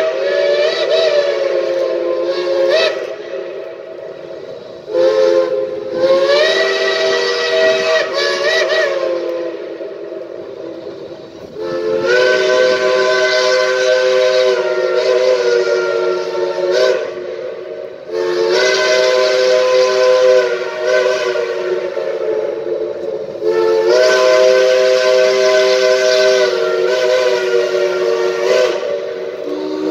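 Geared steam locomotive's chime whistle blowing a string of about five long blasts. Each blast sounds several notes at once and slides up in pitch as the whistle opens.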